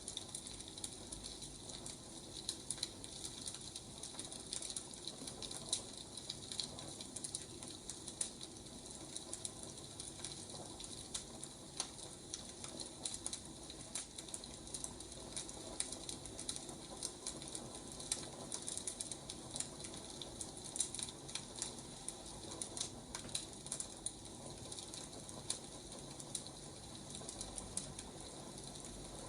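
Wood fire crackling: a steady stream of small, irregular pops and snaps.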